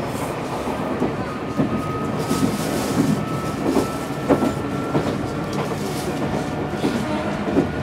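Meitetsu 7700 series electric train running, its wheels knocking over rail joints. A thin whine slowly rises in pitch over the rumble.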